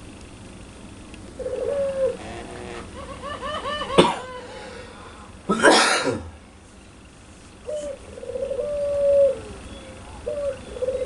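Puter pelung (Barbary dove) cooing: several long level coos that drop in pitch at the end, and a quick run of short rising-and-falling notes, the laughing call, just before a sharp click about four seconds in. A short harsh noisy burst, the loudest sound, comes about a second and a half after the click.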